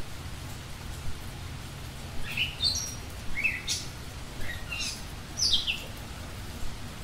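Small bird calling four times, short falling chirps, played back slowed to a quarter of normal speed, over a steady low rumble.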